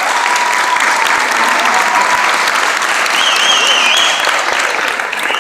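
Audience applauding steadily, with a high wavering whistle from the crowd about three seconds in.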